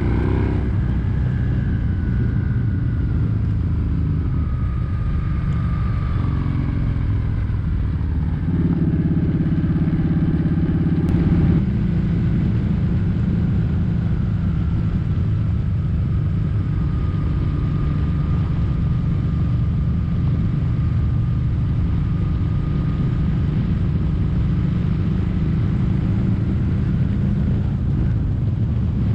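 Kawasaki Vulcan 1700 Vaquero's V-twin engine running as the motorcycle is ridden, a steady engine note that grows louder and fuller about eight and a half seconds in.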